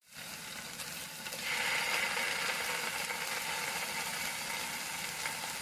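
Grilling cheese, pineapple, sausage and vegetables sizzling in a frying pan, a steady crackling fry that grows louder about a second and a half in.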